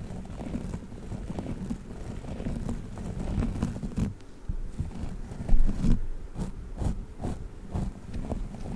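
Hands handling a squishy durian toy, giving a dense run of soft crackles and small taps, with one louder knock about five and a half seconds in.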